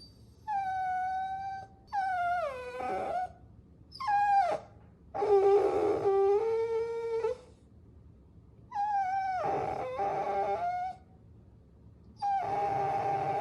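Puppies whining: about six high, drawn-out whines, each lasting from half a second to about two seconds. Some slide down in pitch at the end, and short gaps fall between them.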